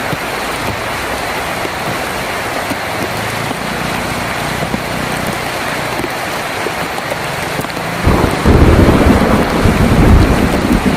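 Heavy rain drumming steadily on a tin roof. About eight seconds in, a loud low rumble of thunder breaks in and goes on over the rain.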